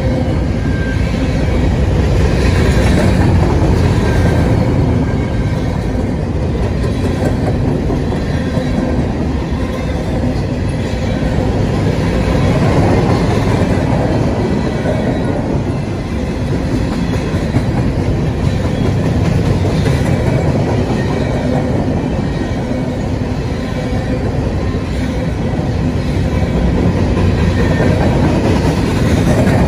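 Freight cars of a CSX manifest train, covered hoppers and tank cars, rolling past close by: a steady, loud rumble of steel wheels on rail with clickety-clack over the joints.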